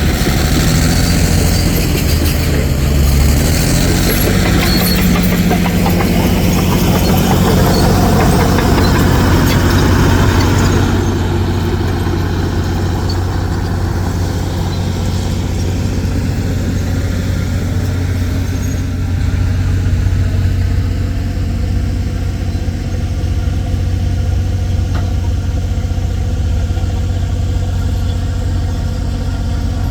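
Heavy diesel engine running, busier and noisier for the first ten seconds or so, then settling to a steady, even hum.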